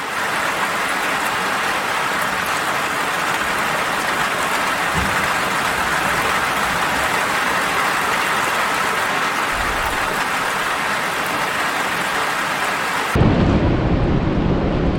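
Steady rain falling: an even, loud hiss of many drops. Near the end it cuts suddenly to a deeper, louder rushing noise.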